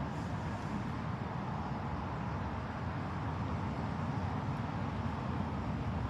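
Steady outdoor background noise: a low, even rumble with a fainter hiss above it and no distinct events.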